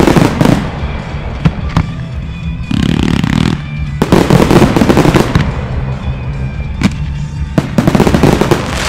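Fireworks display: aerial shells bursting in waves of dense crackling, with single sharp bangs in between.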